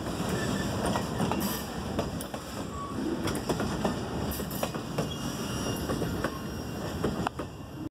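Freight train boxcars rolling past at low speed: a steady rumble and clatter of steel wheels on the rails, broken by many sharp metallic clicks and knocks.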